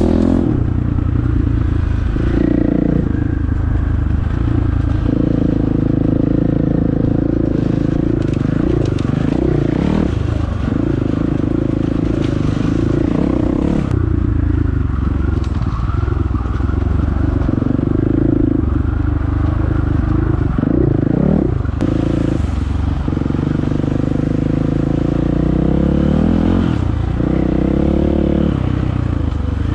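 Dirt bike engine being ridden on a trail, its pitch rising and falling over and over as the throttle opens and closes.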